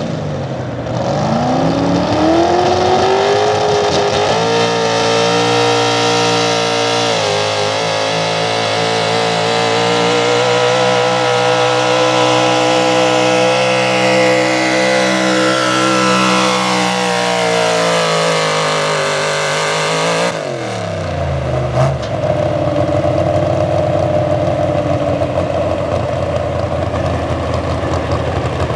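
Big-block V8 pulling-truck engine held near full throttle while dragging a sled, its pitch climbing over the first few seconds and staying high for about twenty seconds. Then the throttle is chopped: the revs drop sharply and the engine settles to a low idle.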